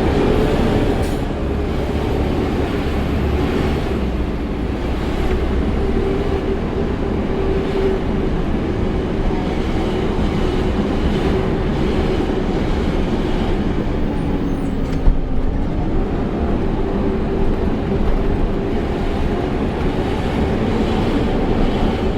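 Peterbilt 520 garbage truck running on the road, a heavy diesel rumble with a steady tone that sinks about thirteen seconds in and climbs back a few seconds later as the engine speed changes. A single sharp knock sounds midway through.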